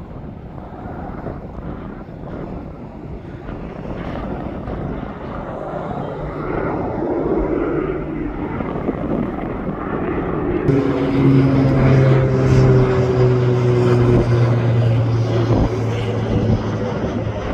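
Propeller aircraft passing close, its engine noise building steadily. Then a loud, steady propeller drone comes in about two-thirds of the way through, its pitch sliding slowly down as it goes by.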